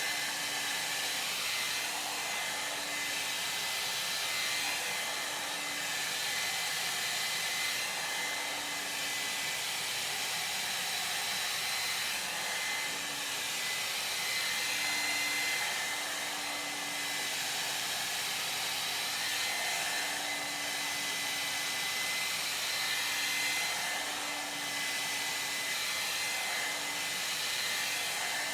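Ionic hair dryer blowing steadily, a rush of air with a high whine from its motor.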